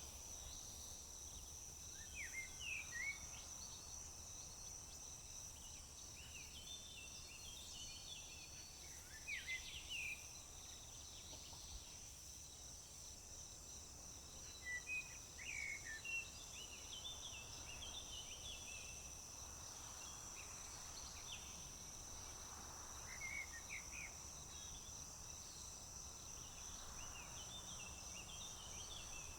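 Steady high-pitched cricket trill, with short bird chirps and song phrases breaking in every few seconds.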